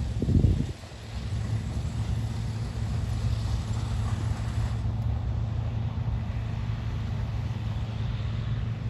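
Heavy diesel machinery running steadily with a low, even drone, with a loud low thump about half a second in.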